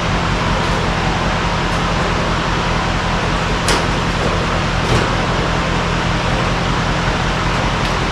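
Steady running of a motor vehicle: a low engine hum under a constant rushing noise, with two brief knocks about four and five seconds in.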